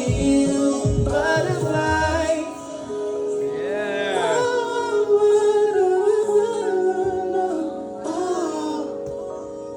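Song: a wordless, wavering vocal line sung over long held notes. A heavy low bass plays for the first two seconds or so, then drops out.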